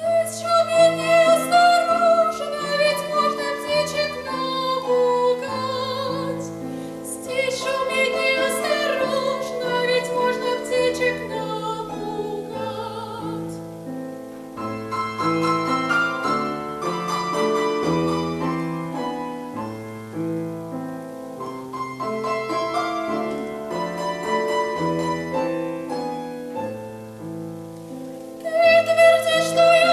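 Female classical voice singing with vibrato over piano accompaniment. In the middle the voice drops out and the piano plays alone, and the voice comes back in near the end.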